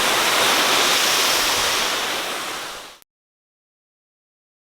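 Steady rushing of a waterfall, fading out between about two and three seconds in and followed by dead silence.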